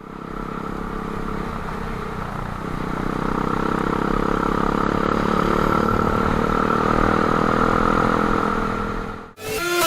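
Nitro Sky 125cc pitbike's single-cylinder four-stroke engine running steadily and growing gradually louder, then cut off abruptly about nine seconds in. Electronic dance music starts right after the cut.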